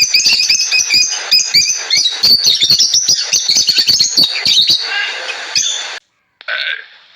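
Birds chirping and squawking in a rapid, busy chatter. It cuts off about six seconds in, and after a brief silence a different, lower animal call begins near the end.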